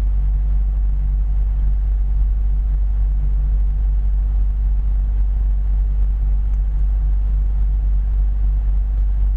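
A vehicle engine idling: a steady low rumble that does not rise or fall.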